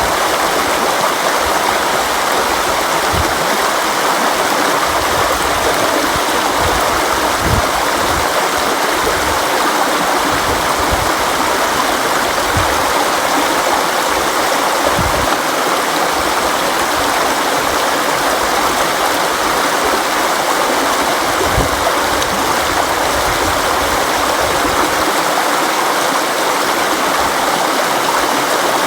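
River water flowing and rushing steadily, with occasional brief low gurgles and splashes.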